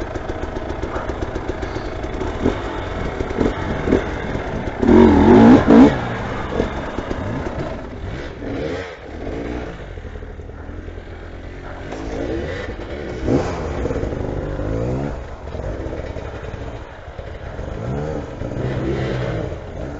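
Motorcycle engine running and being revved, its pitch rising and falling several times. The loudest burst of throttle comes about five seconds in.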